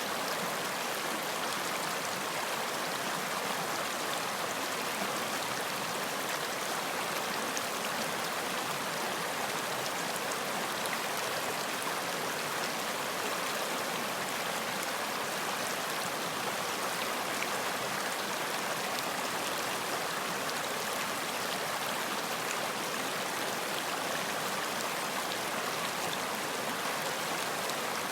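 Running water of a stream, a steady even rushing babble with no breaks or changes.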